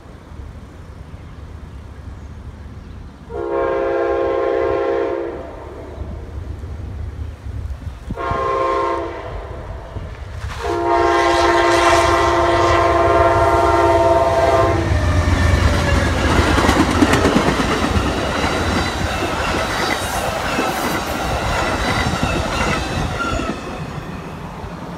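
Amtrak GE P42DC locomotive horn sounding the grade-crossing signal: a long blast, a short one, then a final long blast of about four seconds. The train then passes close by for about eight seconds, a loud rumble with wheels clattering over the rail joints, easing off near the end.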